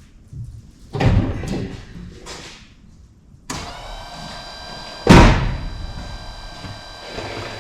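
A clatter of handling, then about three and a half seconds in an electric water pump switches on and runs steadily with a whine, priming the engine's cooling system. A loud knock sounds partway through.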